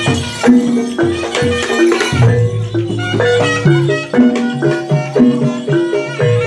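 Live traditional Javanese jaranan (horse-dance) music: a repeating melody of short pitched notes over a bass line, with drum and percussion strikes keeping a steady beat.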